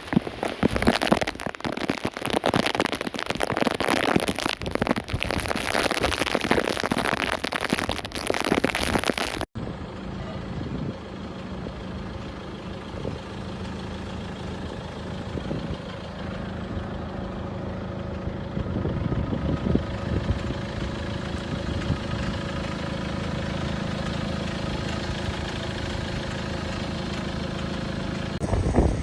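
Heavy rain pouring down as a dense crackling hiss, which cuts off abruptly about nine and a half seconds in. A motor vehicle's engine then runs steadily with a low hum.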